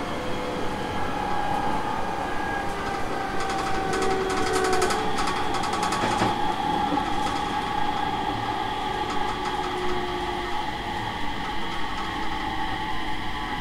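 Aoimori Railway 701 series electric train running, heard from inside the rear cab: steady rolling noise with a motor whine that slowly falls in pitch. A run of rapid clicks comes in about three seconds in and lasts a few seconds.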